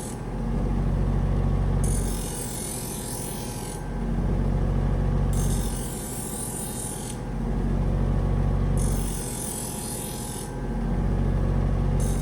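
Small belt sander running with a steady motor hum while a knife blade is drawn across the moving belt in repeated honing passes. Each pass is a high hiss lasting about a second and a half, coming about every three and a half seconds, four times.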